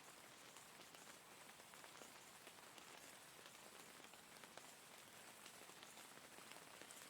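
Steady rain falling, a soft even hiss scattered with many small drop ticks.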